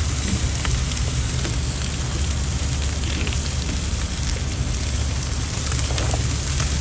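Charcoal grill crackling and sizzling with food cooking on it: scattered small pops over a steady hiss, with a constant low rumble underneath.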